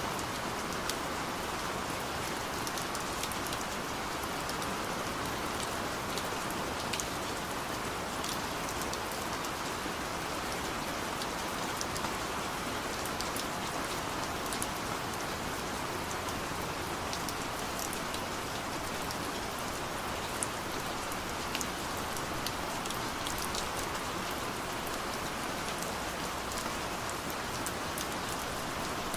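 Steady rain on a car's body and windows, heard from inside the cabin: an even hiss with scattered sharper drop ticks.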